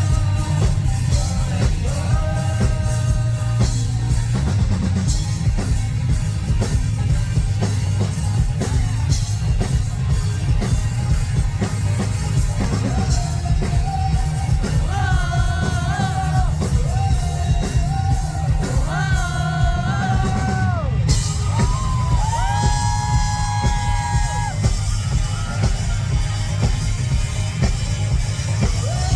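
Live rock band playing loudly, with drums and bass driving a steady beat under a sung lead vocal that holds several long notes in the second half.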